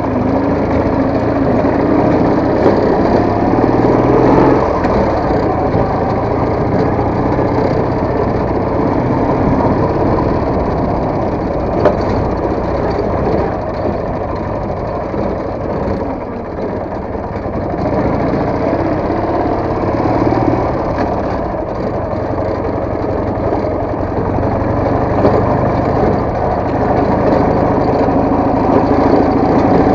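Motorcycle engine running under way, its revs rising and falling, with a single sharp knock about twelve seconds in.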